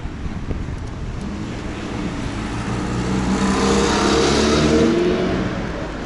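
A car passing close by: its engine and tyre noise swell to a peak about four seconds in, then fade away, over steady low road noise.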